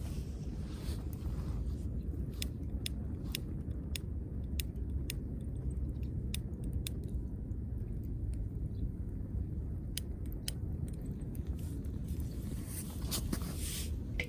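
Wood fire crackling: scattered sharp pops and snaps over a low steady rumble, with a short burst of hiss near the end.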